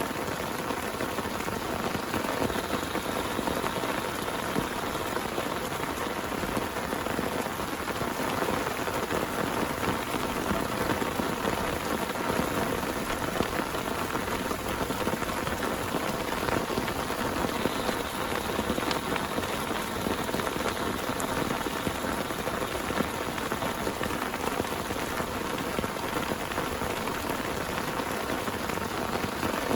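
Heavy rain falling steadily, with a dense, even hiss of drops.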